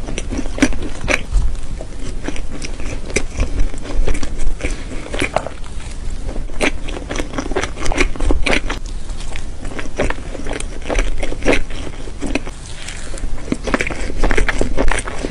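Close-miked chewing of a mouthful of food: many small, irregular mouth clicks.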